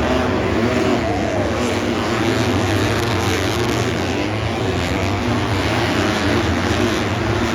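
Several motocross bikes' engines running and revving together in a steady loud din, their pitches rising and falling.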